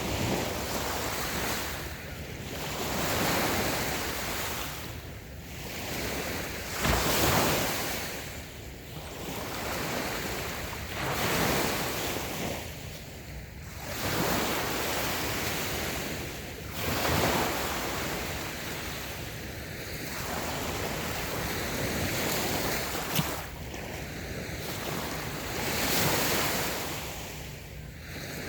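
Small waves breaking and washing onto a sandy beach, the surf swelling and falling every two or three seconds, with a stronger break about seven seconds in. Light wind rumbles on the microphone.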